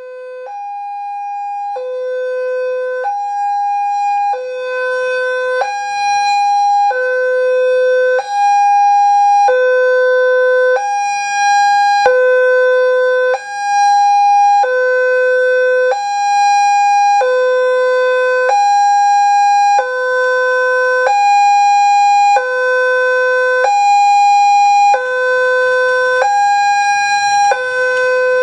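Electronic two-tone warning alarm of a railroad level crossing, alternating evenly between a low and a higher tone about every 1.3 seconds. It fades up over the first few seconds, then holds steady and loud.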